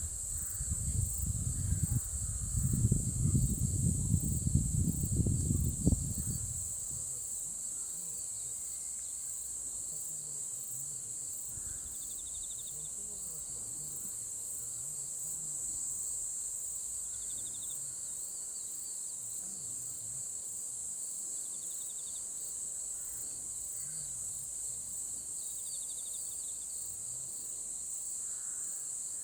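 Steady high-pitched chorus of insects trilling without a break. Loud low rumbling fills the first six seconds, then stops. A few faint short trills sound later on.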